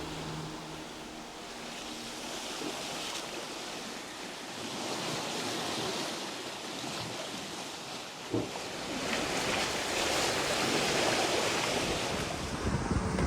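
Sea water rushing and splashing past the hulls of a sailing catamaran under way, with wind buffeting the microphone; the rush swells louder in the second half, with a single knock about eight seconds in.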